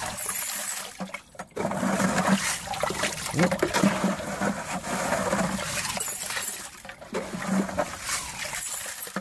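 Water pouring out of a cup with coarse gravel washing down in it, the stones rattling and clicking onto a silver spoon under a steady splash: gravity blasting that pits the metal with a frosted patina.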